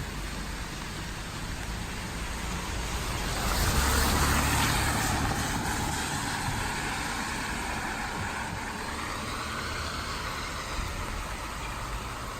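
A vehicle passes on a wet street, its tyre hiss and engine rumble swelling to a peak about four seconds in and fading away, over a steady hiss of rain.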